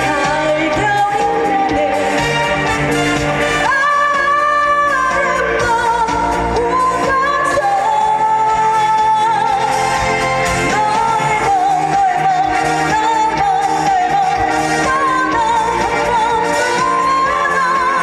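A female trot singer sings live over a backing track, holding long notes with vibrato. The bass and beat drop out for about a second, roughly four seconds in, then the band comes back.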